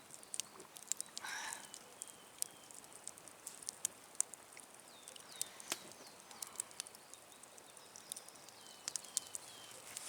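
Campfire crackling with scattered sharp pops and snaps, while a bird repeats short falling chirps in the background.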